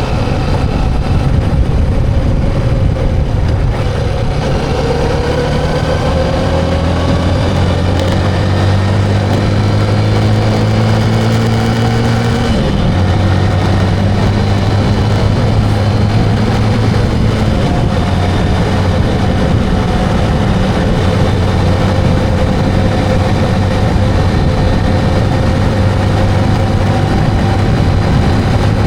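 Motorcycle engine running under way: the revs climb steadily for several seconds, drop abruptly with a gear change about twelve seconds in, then hold a fairly even cruising note.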